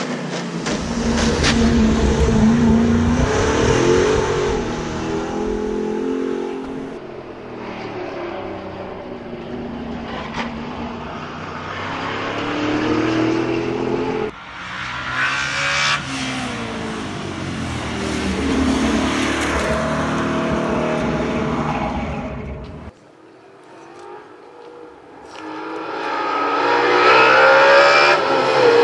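Race-built MGB GT's naturally aspirated, dry-sumped 4.6-litre Rover-block V8 at hard throttle, its pitch climbing and falling again and again through gear changes and corners. The sound breaks off suddenly about 23 seconds in, then builds loud again as the car closes in near the end.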